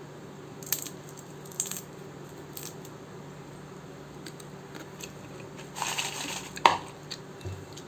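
Crisp fried raw banana chips clicking and rattling as they are handled: a few sharp light clicks, then a short crunchy clatter and one loud click near the end, over a low steady hum.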